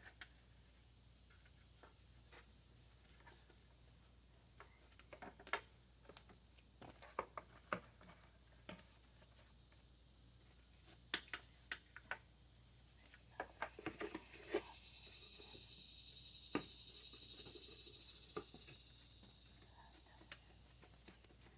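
Quiet handling noise: scattered light clicks and knocks, with a faint steady high-pitched tone throughout and a soft hiss for a few seconds past the middle.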